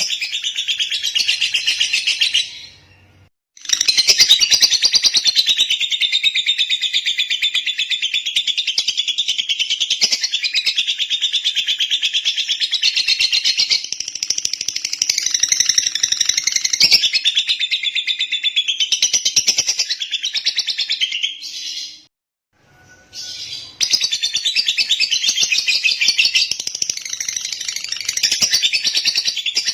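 Lovebird singing in long, fast, unbroken runs of high chattering chirps, breaking off twice for about a second.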